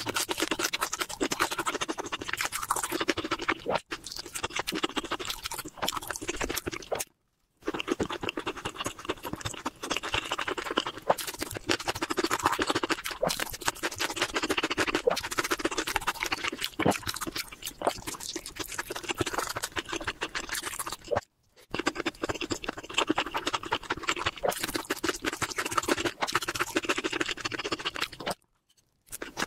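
Close-miked chewing and mouth sounds of a person eating curry and rice: a dense, steady run of small clicks and smacks, broken three times by brief silent cuts.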